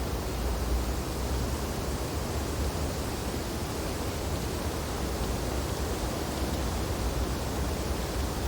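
Steady wind blowing through snow-laden tree branches, a constant rushing noise over a deep low rumble.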